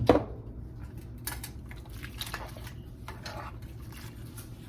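Cooking pot and utensils clinking: one sharp clink right at the start, then scattered light clicks and taps, over a steady low hum.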